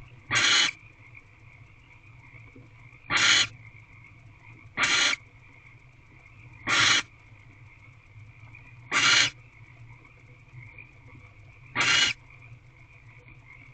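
Female barn owl giving short, harsh, hissing calls, six of them, each about half a second long and a couple of seconds apart. A steady high chorus and a low hum run underneath.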